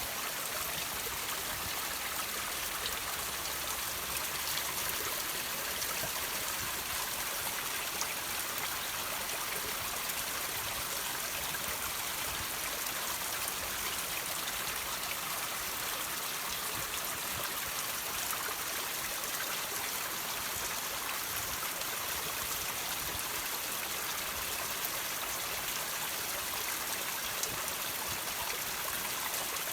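Water trickling and dripping from rocks: a steady, even splashing with faint scattered drip ticks.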